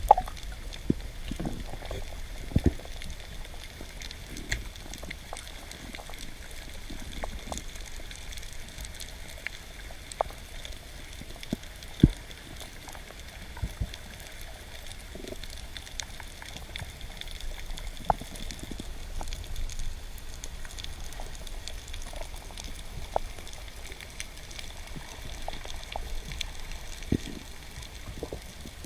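Underwater ambience: a steady faint hiss and low rumble with scattered sharp clicks and pops, the sharpest about twelve seconds in.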